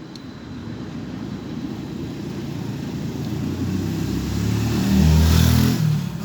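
A motor vehicle passing close by: engine and road noise build steadily to a peak about five seconds in, then fall away quickly.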